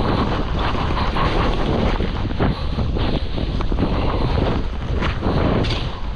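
Wind rushing and buffeting over the camera microphone during a fast ski descent, with skis hissing and scraping through snow, swelling and easing with the turns.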